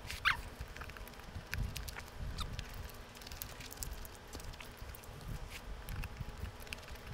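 A person biting into and chewing a thick burger, picked up close by a clip-on microphone: many small wet mouth clicks and crackles over soft low thumps, with a brief squeak about a quarter second in.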